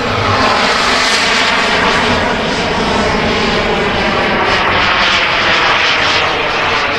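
Turbine engine of a radio-controlled model jet flying past: a loud, steady jet rush that eases just as it ends.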